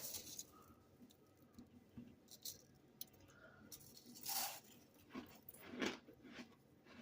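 Freezer frost being chewed: a few quiet, scattered crunches, the loudest about four and a half and six seconds in.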